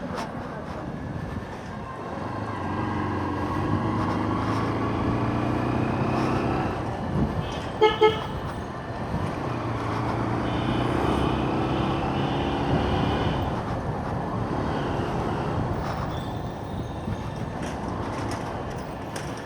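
Motorcycle engine running on the move, its pitch rising as it speeds up twice. About eight seconds in, a horn gives two short beeps, the loudest sound.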